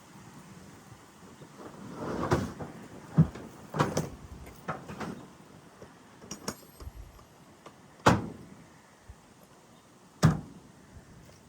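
Irregular knocks, clicks and clatters of hands handling a nitro RC monster truck's parts as it is readied to run, with about seven sharp ones, the loudest about 8 and 10 seconds in.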